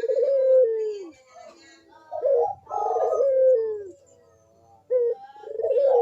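Puter (domestic ringneck or Barbary dove) cooing loudly in repeated drawn-out coos, each sliding down in pitch at its end. A short note comes just before the last coo starts.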